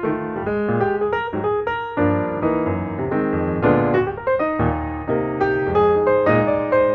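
Background music: piano playing a steady flow of notes.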